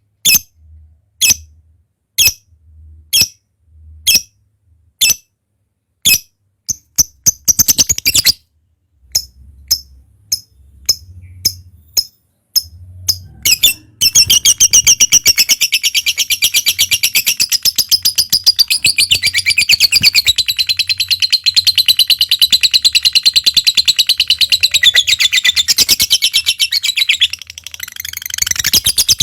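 Lovebird calling: sharp high single chirps about once a second, quickening for a moment, then about halfway through breaking into a long unbroken rapid chatter, the lovebird's "ngekek" song.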